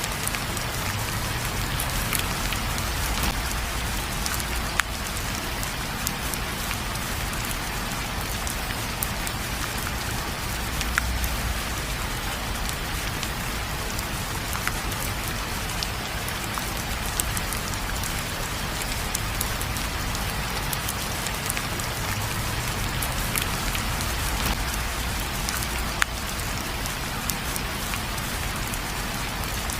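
Steady heavy rain falling on a surface, with scattered single sharp drop ticks and a low rumble underneath.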